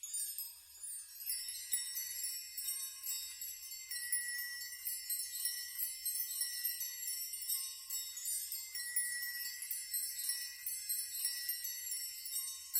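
Many small metal chimes tinkling high and continuously, ringing over each other, with a few longer held tones beneath.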